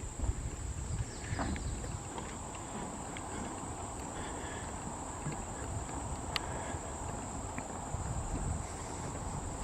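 Summer insect chorus in a swamp woodland: a steady, high, unbroken buzzing, with a low rumble underneath and a single sharp click about six seconds in.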